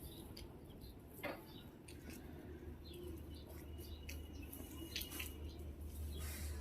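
Faint dripping and trickling of rainwater, with a few separate drips standing out, over a low steady hum.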